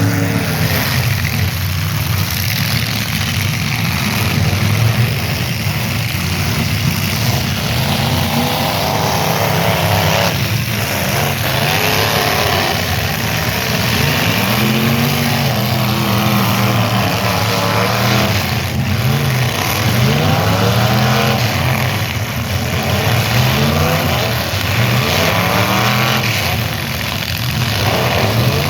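Several car engines revving up and down at a demolition derby, their pitch rising and falling over and over, with a couple of sharp bangs of cars hitting each other.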